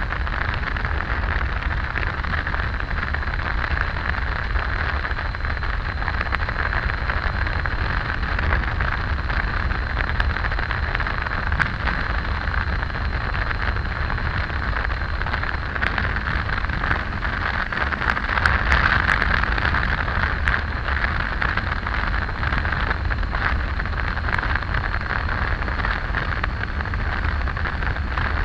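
Steady wind rush and low rumble from riding a motorcycle on the road, the wind over the microphone covering most of the Triumph Tiger 800's engine.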